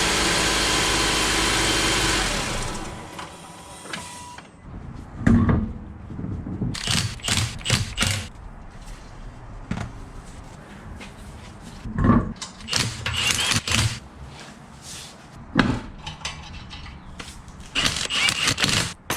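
An engine running steadily, then cut off about two to three seconds in. After it comes a string of separate knocks, clunks and short bursts of clatter.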